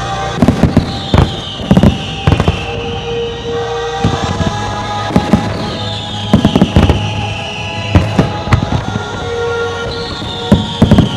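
Fireworks going off in clusters of sharp bangs every second or two, over show music with sustained tones.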